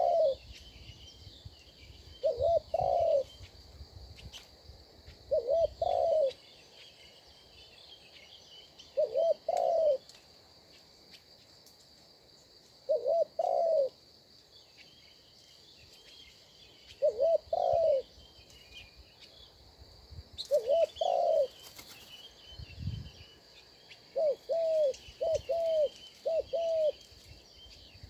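A dove cooing: a short two-note coo repeated about every three to four seconds, with three quicker coos in a row near the end. A steady high insect drone and faint small-bird chirps sound behind it.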